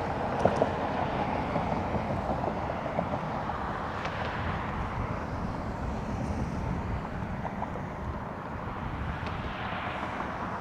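Steady rumble of jet engines across the airfield, with wind on the microphone.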